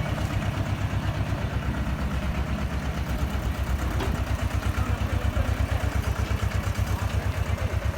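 Tractor's diesel engine running with a fast, even low chugging, getting a little louder in the second half.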